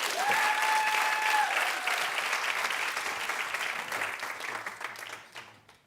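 Studio audience applauding, tapering off near the end. Near the start, one voice in the crowd holds a long, high call over the clapping.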